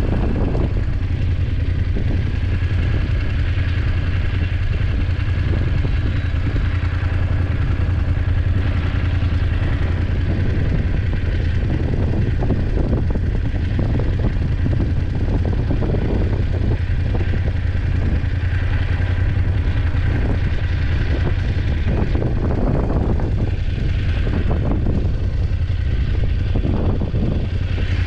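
BMW F850GS parallel-twin engine running steadily while riding, a constant low drone with road and wind noise over it.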